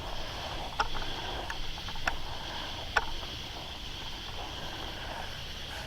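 Steady chorus of night insects, a high-pitched buzzing drone, over a low rumble, with a few light clicks in the first three seconds.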